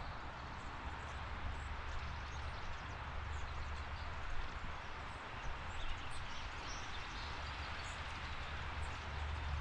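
Steady outdoor background noise with a low rumble, and a few faint, brief high bird chirps scattered through it.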